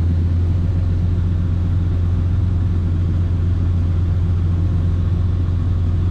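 Diesel engine of heavy harvest machinery running steadily under load, a deep, even drone.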